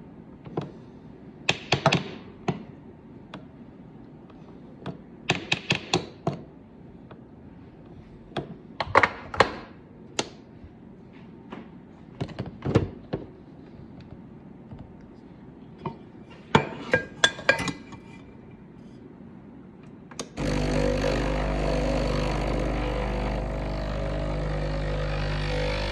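A series of clicks and knocks, then near the end a coffee machine's grinder starts up suddenly and runs with a steady grinding sound.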